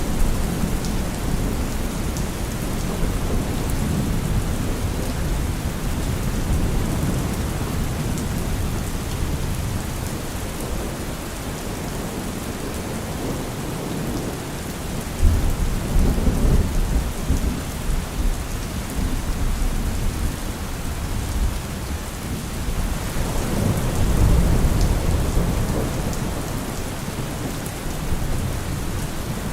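Steady heavy rain with rolling thunder. A deep rumble swells about halfway through and another near the end.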